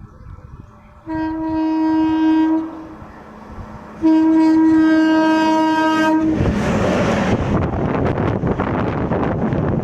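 Indian express train's electric locomotive sounding its air horn in two blasts of a second and a half to two seconds each. Then the train passes close at speed without stopping, a loud steady noise of wheels and coaches.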